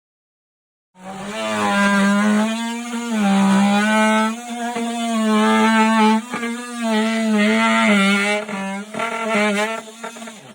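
Honeybees buzzing loudly close to the microphone, a steady hum with a wavering, swelling pitch. It starts about a second in and cuts off abruptly near the end.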